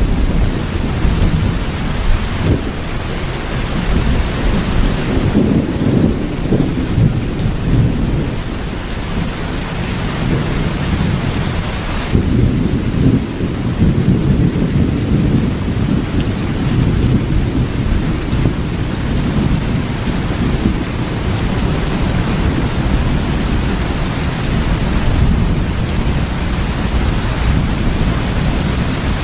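Steady heavy rain, with a continuous deep rumble underneath that sounds like distant rolling thunder.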